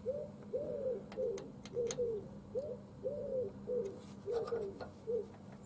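A pigeon cooing, a series of short rising-and-falling coos repeated about every half second, with a few faint clicks in between.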